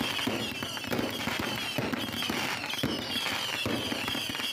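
Fireworks going off, a rapid run of pops and crackles in quick succession.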